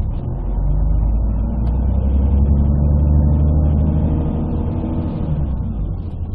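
Scania DSC11 six-cylinder diesel of a Scania CN113CLL city bus, with a Voith automatic gearbox, heard from inside the bus. The engine note builds under load about half a second in, holds for several seconds, then eases off near the end. The sound is muffled and bass-heavy because the phone's microphone is partly covered.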